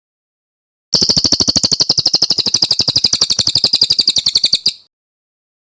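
Brown cililin singing one long rapid trill of evenly repeated high notes, about thirteen a second, that starts about a second in, eases slightly lower in pitch and stops abruptly after nearly four seconds.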